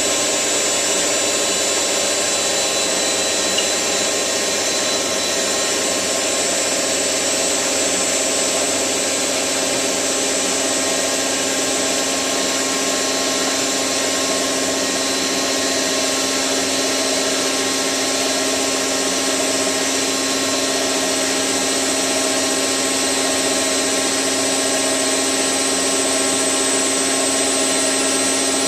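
Hotpoint 9534A washing machine spinning at a steady high speed: a continuous, even motor whine with a steady hum.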